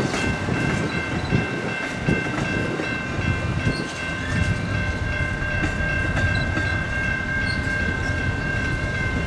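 A train rolling by with a steady low rumble, and several high-pitched tones held steady throughout.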